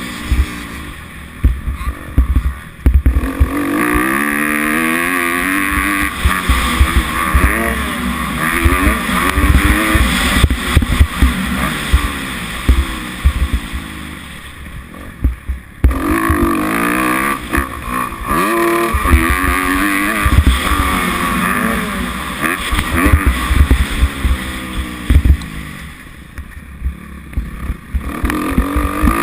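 Kawasaki 250F four-stroke motocross bike engine revving hard and falling back as it is ridden around the track, with the pitch climbing and dropping through the gears. The throttle comes off briefly three times, near the start, about halfway and near the end. Wind rumble on the camera's microphone runs underneath.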